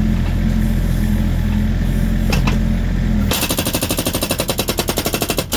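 Volvo EC60E mini excavator's engine running steadily, then about three seconds in its hydraulic breaker starts hammering in rapid, even blows, driving into a log to split it.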